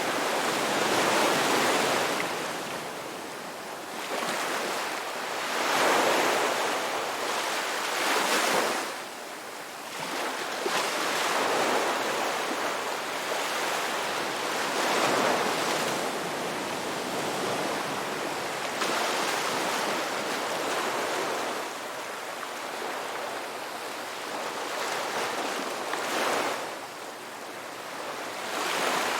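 Ocean waves breaking and washing on the shore, a steady rush of surf that swells and falls back every few seconds.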